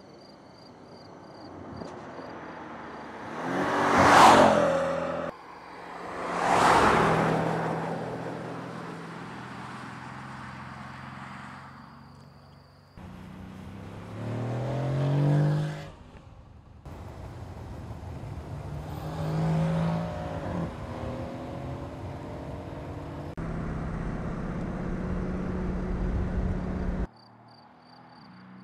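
Mercedes-AMG C63 Estate's twin-turbo V8 in a run of cut-together track shots: two fast pass-bys in quick succession, then the engine revving up and falling away twice, and a steady high-rev run that cuts off abruptly near the end. Crickets chirp faintly at the start and end.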